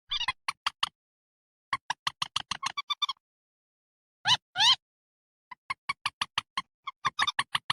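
Bird-call recording played as a lure: runs of short, rapid piping notes, about five a second, with two louder sweeping notes a little past halfway.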